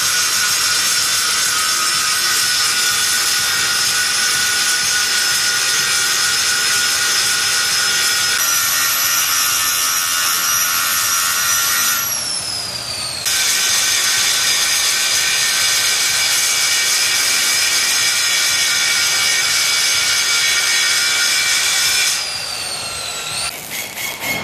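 Power grinder running at full speed with a high, steady whine. It winds down about halfway through and is started up again a second later, then winds down again near the end.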